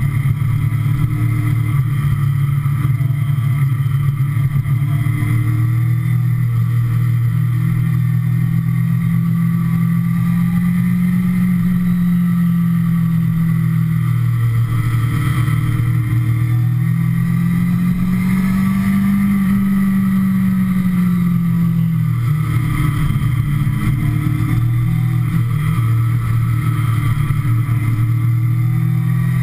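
Sportbike engine running steadily under way. Its pitch rises and eases off gently twice, around the middle and again about two-thirds of the way through, as the throttle is opened and rolled back.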